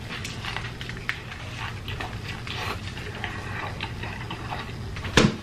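Close-up eating sounds of a bacon double cheeseburger being bitten into and chewed: irregular wet smacking and crackling mouth noises. One sharp, loud smack comes about five seconds in.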